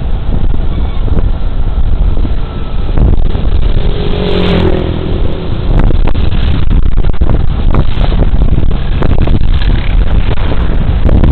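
Wind buffeting a body-worn camera's microphone over the running engine and road noise of a Suzuki Burgman Street 125 scooter at speed. A brief pitched tone rises out of the noise about four to five seconds in.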